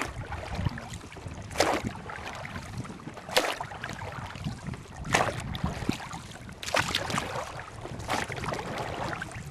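Boat being rowed: six even strokes of oars or paddle splashing into the water, one about every 1.7 seconds, over a steady low rushing of water and wind.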